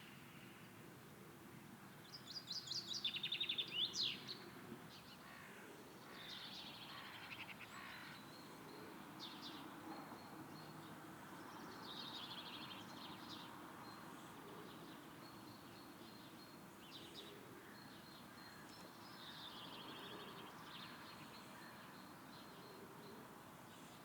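Small songbirds singing: short high trilled and chirping phrases every few seconds, the loudest about two to four seconds in, over a faint steady outdoor hiss.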